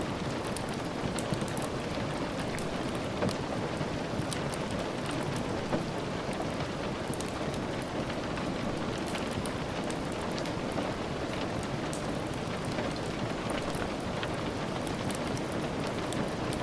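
Steady rain falling, with scattered sharp drip ticks throughout.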